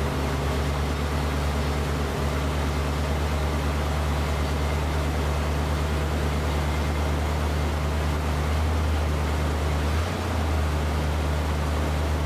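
1972 Mercury Comet's small-block Ford 302 V8, fed by a two-barrel carburetor, idling steadily just after a cold start with the choke closed. The idle is low and even, with a brief dip about ten seconds in.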